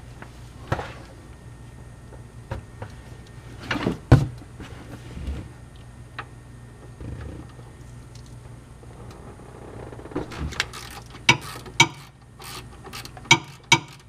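Metal tools clicking and knocking under the car as the oil drain plug is worked loose with a socket: scattered sharp clicks, a heavier knock about four seconds in, and a run of clicks near the end, over a steady low hum.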